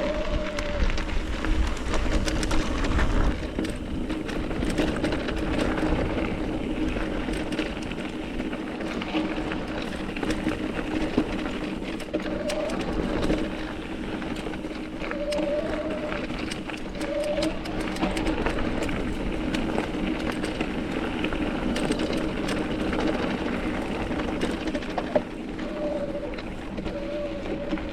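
Mountain bike rolling over a loose, rocky trail: tyres crunching on gravel and rock, with a constant clatter of small knocks and rattles from the bike, wind rumble on the microphone near the start, a steady low hum, and short whining tones several times.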